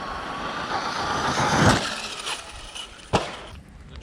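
RC car's brushless motor whining as it accelerates, with its tyres churning on dirt. The sound swells to its loudest under two seconds in, then fades away, and a single sharp knock follows about three seconds in.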